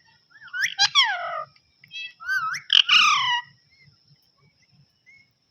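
Pet parrot vocalising in two bouts, the first about half a second in and the second about two seconds in, each made of calls that slide down in pitch.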